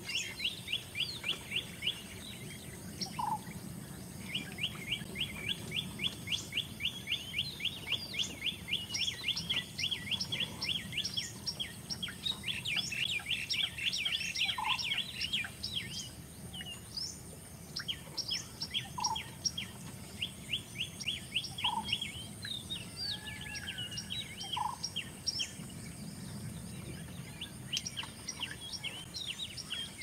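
Wild birds calling: long runs of rapid high chirps, several a second, each run lasting a few seconds, with a short lower note every few seconds.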